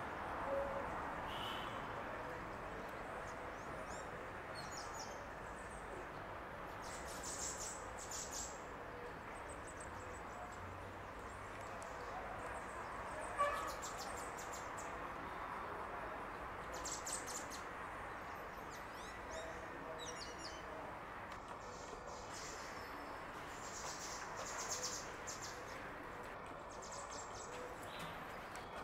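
Birds calling: short high chirps every few seconds over a steady outdoor hiss.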